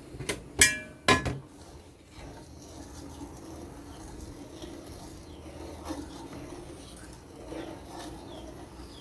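Metal cookware clattering: a few sharp knocks in the first second and a half, one of them ringing like a pot or lid being struck, then a steady low hum with faint small knocks.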